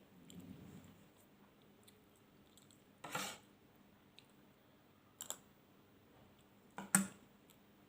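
Close-miked eating sounds: soft chewing at first, then three short sharp clicks and crunches, the last the loudest.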